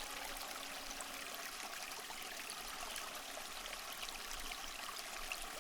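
Mountain stream water flowing steadily, an even rushing hiss with small splashes and drips scattered through it.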